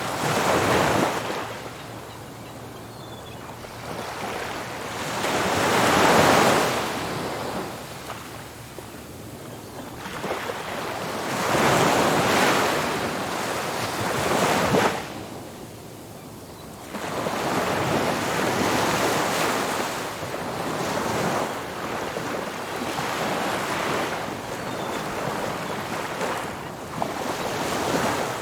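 Ocean surf breaking on a beach, the rush of each wave swelling and fading every five or six seconds.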